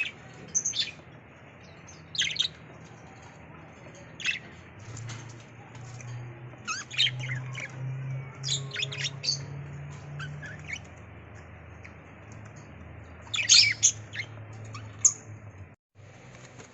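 Budgerigars chirping in short, sharp calls, busiest about seven to nine seconds in and again near the end, over a steady low hum.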